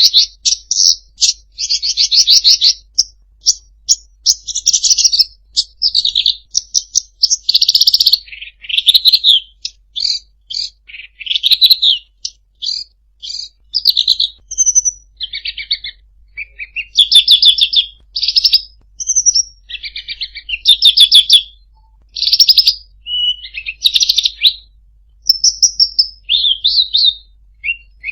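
Songbird singing a fast, varied song of short trilled and chattering phrases mixed with a few clear whistled notes, one phrase after another with only brief pauses.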